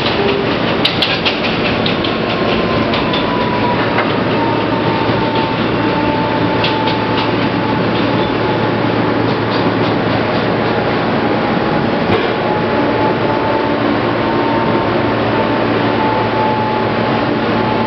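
Interior ride noise of an R160B New York subway car in motion: steady wheel-on-rail rumble with clicks over the rail joints, and a motor whine gliding slowly down in pitch as the train slows.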